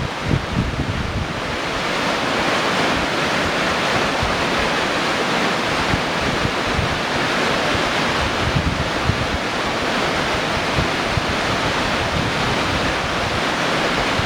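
Dry Falls, a waterfall on the Cullasaja River, pouring in a steady, dense rush of falling water, with wind buffeting the microphone in low, uneven gusts.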